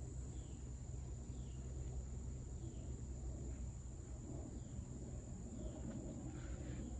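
Summer insects droning in one steady high tone, with a bird repeating a short falling call about once a second, over a low steady hum. Some rustling near the end.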